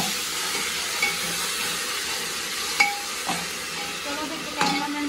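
Onion-tomato paste sizzling in hot oil in an aluminium pressure cooker, stirred with a metal ladle. A few sharp clinks of the ladle against the pot come about three seconds in and again near the end.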